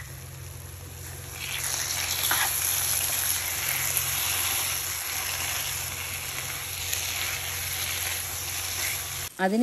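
Chicken and tomato masala sizzling in oil in a nonstick kadai while a spatula stirs it; the sizzle grows louder about a second and a half in and runs on steadily.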